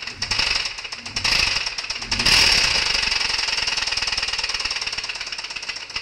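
Ford Puma engine running with a loud, rapid hammering knock: the sound of a blown engine. The knocking gets louder about two seconds in and then holds steady.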